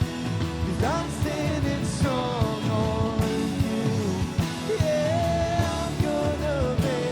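Live worship band playing a rock-style song: drums keeping a steady beat under guitars, with a sliding, bending melody line on top, rising in a quick glide about a second in.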